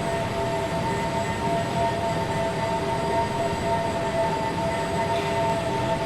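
A large machine or vehicle running steadily: a constant rumble with two held tones over it, unchanging throughout.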